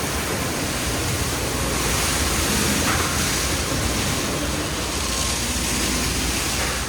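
Water jets spraying steadily inside a conveyor tunnel car wash, a continuous rushing hiss.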